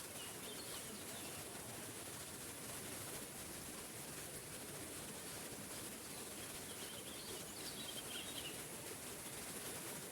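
Waterfall water rushing steadily, with a small bird chirping faintly shortly after the start and again in a longer run of chirps around seven to eight seconds in.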